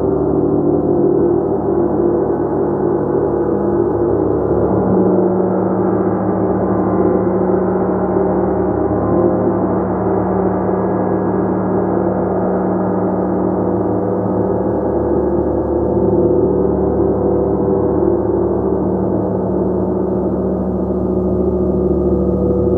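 Gong played continuously in a sustained, shimmering wash of many overlapping tones, steady in loudness with no single strike standing out.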